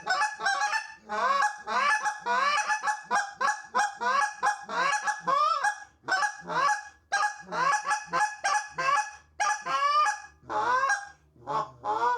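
Tim Grounds G-Overhauler short-reed goose call blown in a fast run of clucks and honks, each note sweeping up and breaking over, with a few short pauses in the second half. Its short insert and thinned reed make it run quick and responsive.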